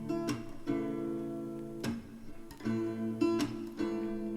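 Acoustic guitar accompaniment with no singing: chords strummed about once a second, each left to ring.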